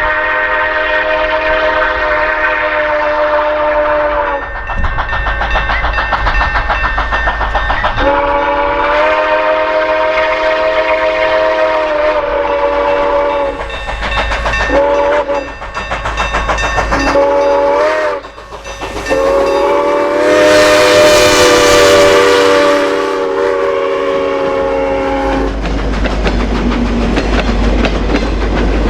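Steam whistle of a 2-8-2 steam locomotive, a chord of several tones, blown in five blasts: two long, two short and a final long one. Between the blasts and after them, the train is heard rolling over the rails.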